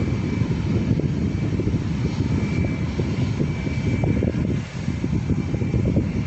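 Airliner engines running with a steady, low rumble and a faint high whine.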